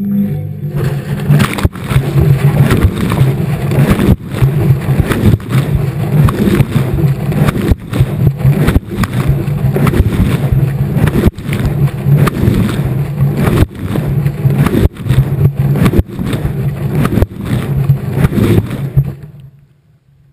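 Washing machine drum turning during the wash, heard from inside it: wet laundry and water tumbling and sloshing in a rhythmic surge about once a second, with knocks from the load dropping against the drum. The drum stops about a second before the end, leaving a faint low hum.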